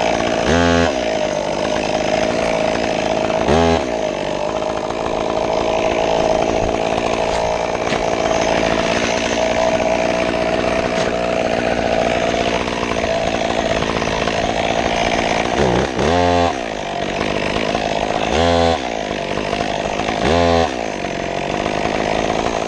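Stihl chainsaw running at high revs, cutting limb wood into short sections. Its engine pitch swoops briefly about five times as the throttle eases and picks up again, and the saw drops away right at the end.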